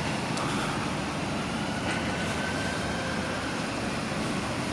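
Car engine idling: a steady low rumble with no change in pitch.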